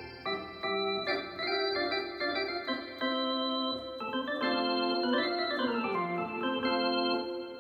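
Yamaha DX7 FM synthesizer playing an organ-like patch: held chords that change every half second or so, with a quick run of notes up and back down a little past the middle.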